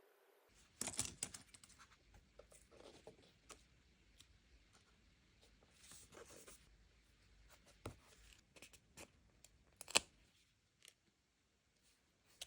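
Paper and stickers being handled for journal decorating: soft rustling, peeling and tearing with scattered light taps and clicks. It starts about half a second in, and one sharp click near the end is the loudest.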